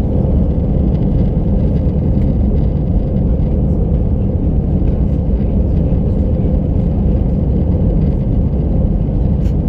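Steady, low cabin rumble of an Airbus A319 climbing out, engine and airflow noise heard from inside the cabin, with a faint steady hum above it.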